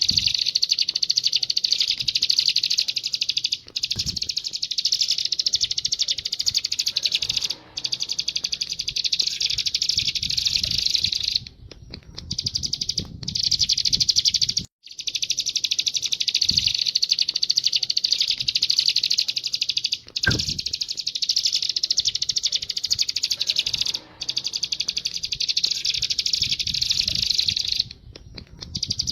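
Canary singing long, rapid rolling trills in phrases several seconds long, with brief pauses between phrases.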